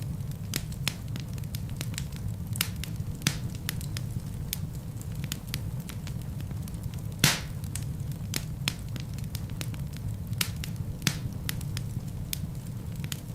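Wood fire burning in a fireplace: a steady low rumble of flames with scattered small crackles, and one louder pop about halfway through.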